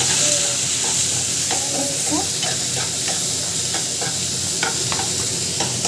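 Chopped onions and tomato frying in oil in a kadai, with a steady sizzle, while a metal spoon stirs them and knocks and scrapes against the pan in scattered clicks.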